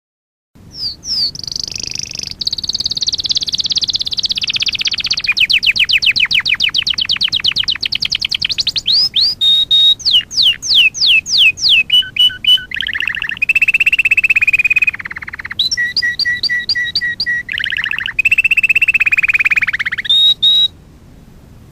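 Domestic canary singing a long, loud song of rapidly repeated notes, fast trills and down-sweeping whistles, changing phrase every few seconds. It starts after a brief silence and stops about a second before the end.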